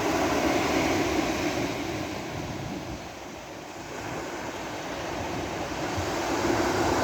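Sea surf washing onto a beach: the rush of water fades down about halfway through and swells back up near the end as the next wave comes in.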